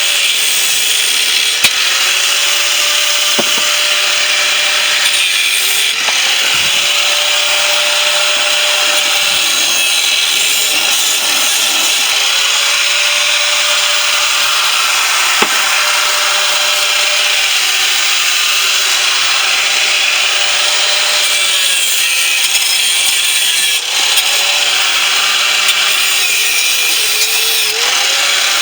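Corded angle grinder cutting into the steel shell of a refrigerator compressor: a steady, loud grinding hiss, with the motor's pitch sagging under load and recovering every few seconds.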